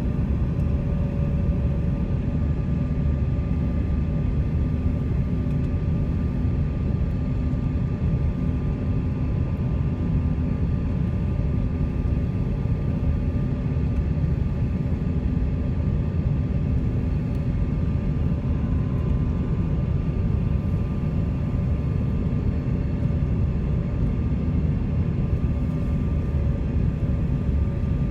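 Jet airliner engines running steadily, heard from inside the passenger cabin as a constant low rumble with a few steady engine tones above it.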